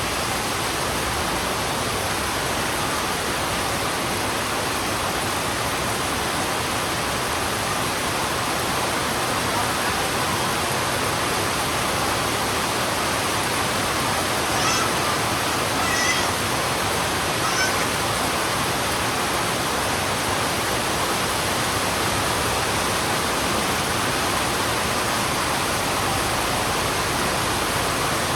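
Heavy rain falling in a steady, even hiss. About halfway through, three short high-pitched animal calls sound over it.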